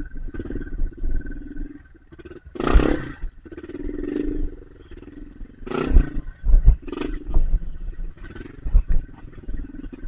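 Dirt bike engine revving hard in repeated bursts, surging and dropping back, with a few heavy thumps.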